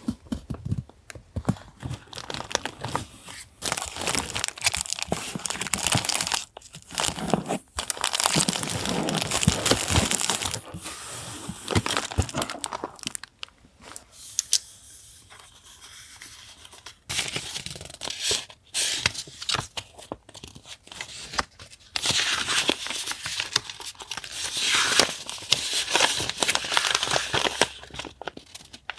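Paper packaging being torn open and crinkled by hand, in irregular bouts of rustling with short pauses and a quieter stretch about halfway through.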